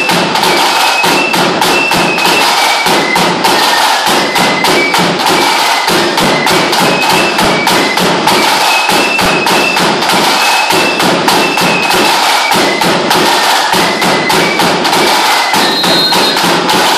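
Lambeg drum beaten rapidly with cane sticks: a loud, dense, unbroken rattle of strokes, with a high piped tune playing over it.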